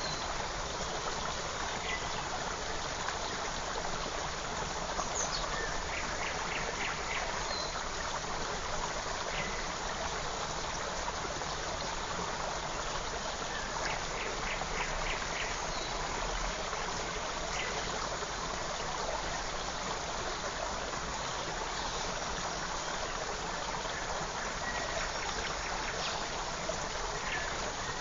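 A forest creek running steadily, with birds calling over it: a few short runs of quick, high repeated notes and scattered single chirps.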